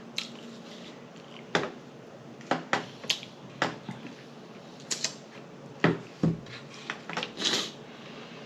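Dishes and utensils being handled and moved, making about a dozen sharp, irregularly spaced clicks and knocks.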